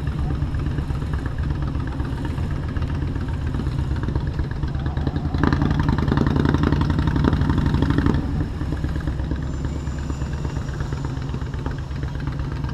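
Motorcycle engine running at low speed, steady and low-pitched. About halfway through it gets louder for roughly two and a half seconds, then drops back to its steady note.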